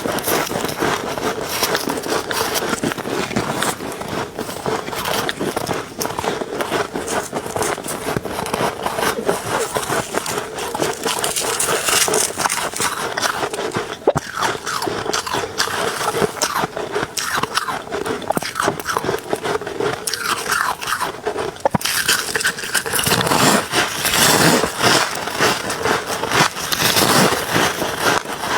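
Freezer ice being crunched and scraped close up: a continuous run of dense, crackly crunches, fuller and heavier from about three-quarters of the way in.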